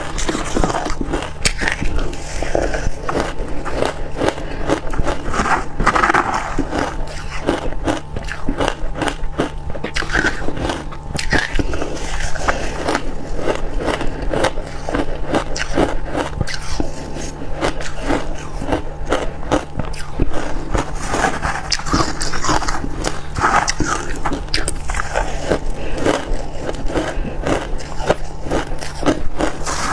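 Freezer frost being bitten and chewed close to the microphone: a dense, uneven run of crisp crunches and crackles, over a steady low hum.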